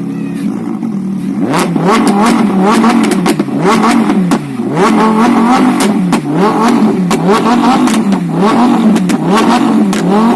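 Lamborghini Huracán's V10 engine blipped from idle, its exhaust note rising and falling about eight times in quick succession, with crackles and pops from the exhaust as the revs drop.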